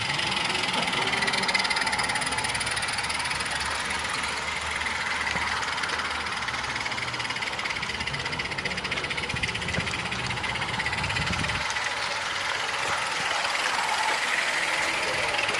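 Model train running on the layout against a steady background hum, with a low rumble that stops about twelve seconds in.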